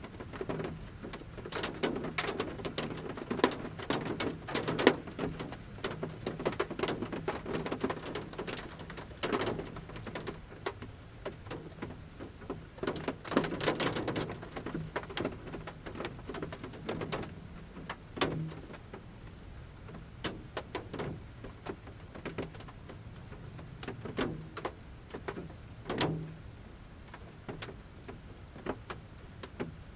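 Large raindrops falling from the forest canopy onto the roof of a camper van, heard from inside: irregular sharp taps on the roof, dense in the first half and sparser after about seventeen seconds.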